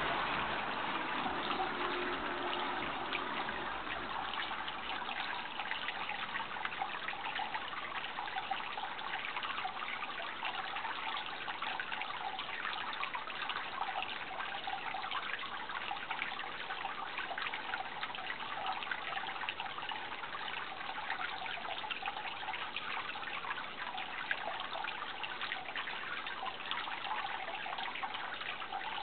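Water trickling and splashing steadily, with a continuous, finely crackling hiss.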